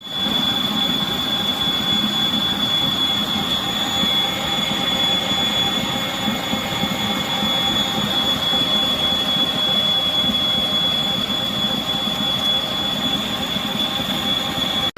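COOKLEE SM-1551 660 W stand mixer motor running steadily, with a constant high whine over a low rumble.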